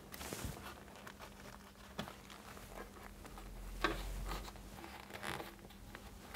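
Faint handling noise of plastic wall plugs being pushed into drilled holes, with light rustling and a couple of sharper clicks, one about two seconds in and a louder one near the middle.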